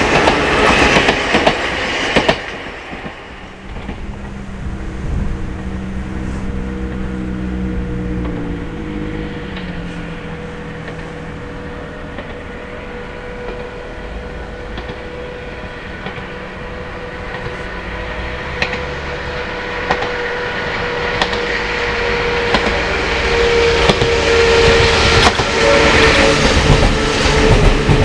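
Sangi Railway electric train passing the level crossing: loud with wheel clicks over the rails until about 2 s in, then a quieter steady running rumble with a few steady tones, some stepping down in pitch. The rumble grows louder again toward the end, with wheels clicking over rail joints.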